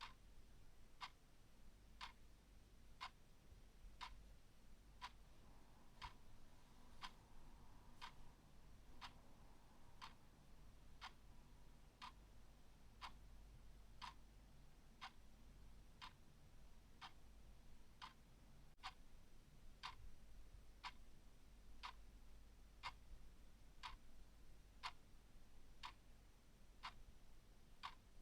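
A clock ticking steadily and faintly, one even tick each second.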